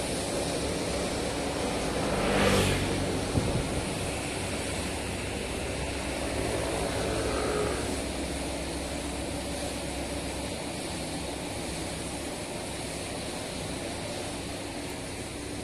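Street traffic: vehicle engines running and passing, one coming close and loudest about two and a half seconds in, followed by a couple of sharp knocks.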